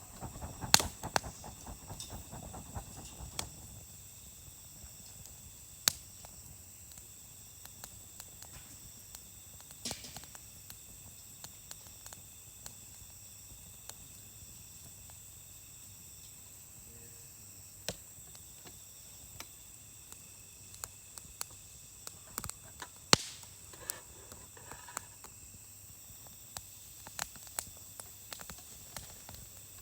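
Wood campfire crackling: scattered sharp pops and snaps, closely packed for the first few seconds and then sparse, with one loud pop about two thirds of the way through.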